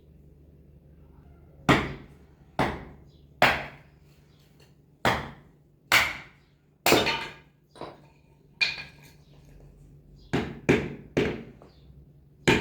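Pieces of wood being broken up for a fire: about a dozen sharp knocks and cracks at uneven intervals, some in quick pairs.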